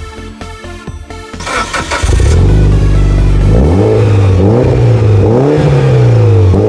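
Electronic music, then a Mitsubishi Lancer Evolution IX's turbocharged 2.0-litre four-cylinder starts about a second and a half in and settles to a loud, steady idle. From about halfway it is revved in several quick blips, its pitch rising and falling with each.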